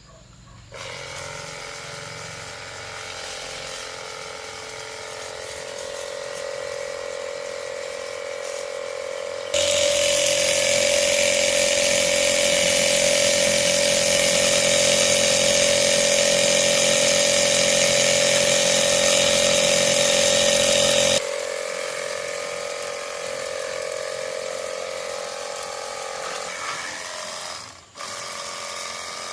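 An electric motor-driven machine runs with a steady hum. It is much louder and fuller for about twelve seconds in the middle, then drops back to a lower level, with a brief dip near the end.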